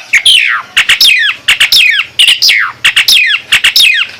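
Nias hill myna calling: a quick series of loud calls, about three a second, each falling steeply in pitch, with sharp clicks between them.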